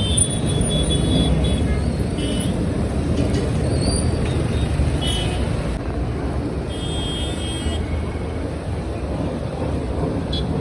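Steady low rumble of road traffic, with a few short high-pitched toots, typical of horns or whistles.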